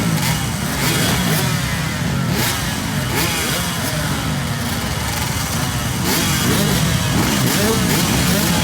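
Several motocross bike engines racing together, their pitches repeatedly rising and falling as the riders rev and shift.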